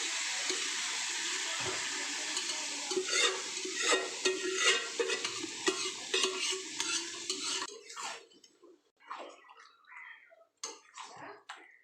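Chicken and onion-spice masala sizzling in a pan while a spoon stirs and scrapes it, the strokes coming quickly from about three seconds in. About eight seconds in the sizzling stops abruptly, leaving scattered scrapes and clinks of the spoon on the pan.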